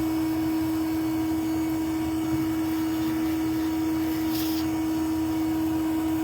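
A bee vacuum running steadily, a constant motor hum with a rushing airflow noise under it.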